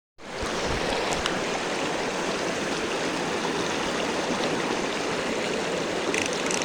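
Steady rush of flowing stream water, with a couple of light knocks about a second in.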